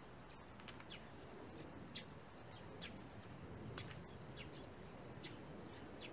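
Faint outdoor ambience with scattered short, high bird chirps, one every second or so.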